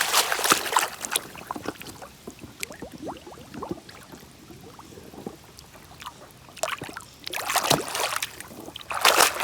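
Water splashing and trickling in bursts as a muddy toy vehicle is washed, heaviest near the start and again toward the end, with small clicks and knocks of handling in between.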